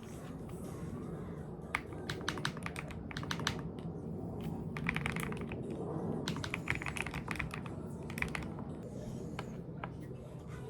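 Typing on a COX CF75 mechanical keyboard with orange switches: bursts of key clicks begin about two seconds in, with short pauses between them, over a steady low hum.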